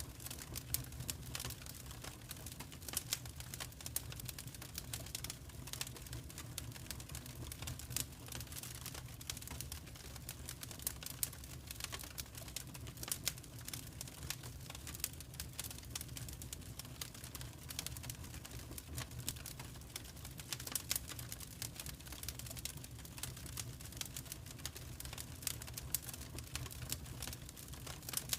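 Wood fire crackling steadily: dense, irregular sharp pops and snaps over a low, even rumble of burning.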